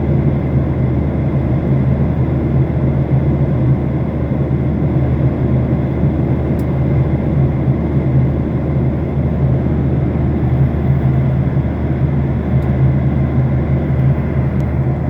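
Steady in-flight cabin noise of an airliner: a constant low hum from the engines under an even rush of air.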